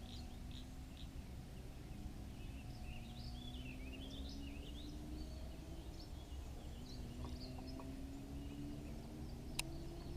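Outdoor ambience: birds chirping and warbling over a steady low rumble, with one sharp click near the end.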